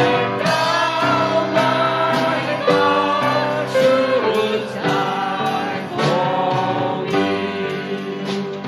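Worship song: a group of voices singing a melody to piano and drums, with a steady beat.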